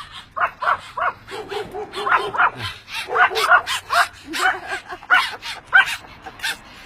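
Pomeranians barking in a rapid run of short, high-pitched yaps, several a second and at times overlapping, as alert barking at a big dog walking past.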